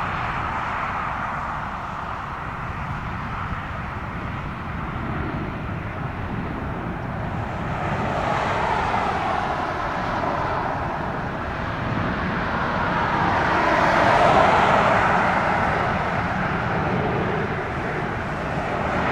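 Jet airliner engines running at a distance, a continuous roar that swells about 8 seconds in and again, louder, about 14 seconds in.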